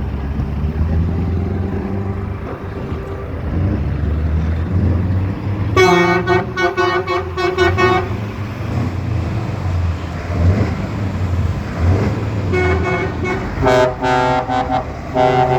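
Truck horns sounding over the steady low rumble of truck engines: one horn blast of about two seconds some six seconds in, then several more blasts at different pitches near the end.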